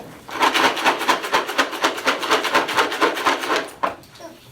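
Rapid, rhythmic scraping or rasping of an object, about eight to ten strokes a second for roughly three and a half seconds, then stopping. It is a hand-made sound effect for the giant gobbling up the cat's food.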